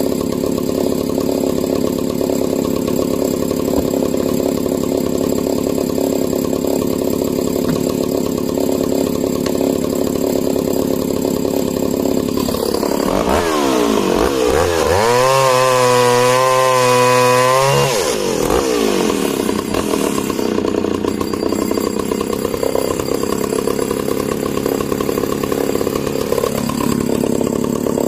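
Echo CS-602VL two-stroke chainsaw running while cutting discs off a log. About halfway through, the engine rises to a high pitch, holds there for a few seconds and drops back.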